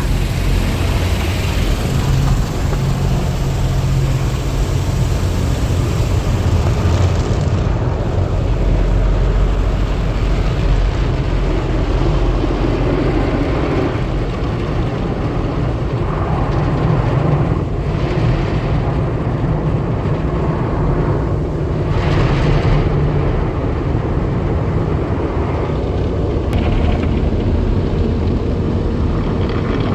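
Automatic car wash machinery heard from inside the car going through it: a loud, steady rushing noise over a deep rumble.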